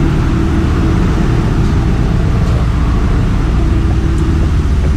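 Loud, steady drone of a ship's engine-room machinery running, heaviest in the low end, with a faint steady hum over it.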